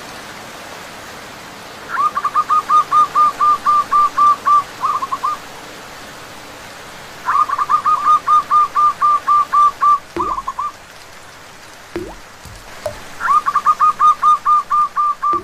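Zebra dove calling in three bouts, each a quick run of about a dozen even coos, over a steady hiss of rain and running water. A few soft knocks come between the second and third bouts.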